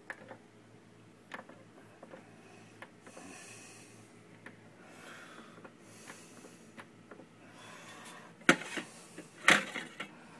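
Keurig coffee maker being handled: small clicks over a low steady hum, then two sharp clunks about a second apart near the end.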